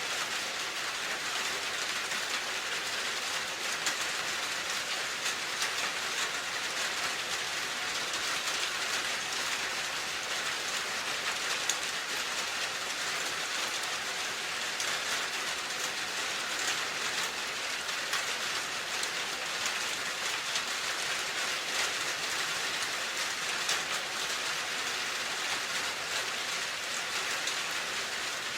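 Steady rain falling: an even hiss with many small drop ticks through it.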